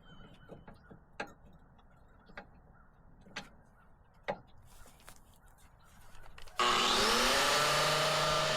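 A few faint clicks, then about six and a half seconds in a Metabo 6-inch angle grinder switches on and spins up with a rising whine. It then runs loudly at a steady pitch.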